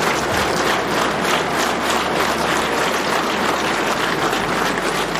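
A large audience applauding, a dense, steady mass of hand clapping.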